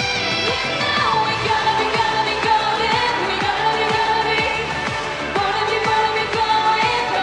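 Pop song with female singing, long held notes over a steady beat.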